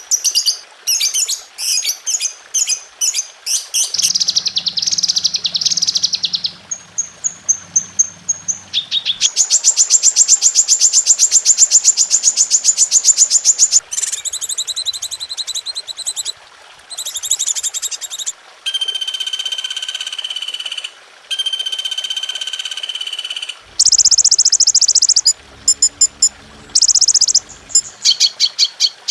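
Recorded songbird calls strung together as masteran, the song tracks used to tutor caged birds. Fast chirp series, rapid trills and held whistled notes change abruptly to a different call every few seconds.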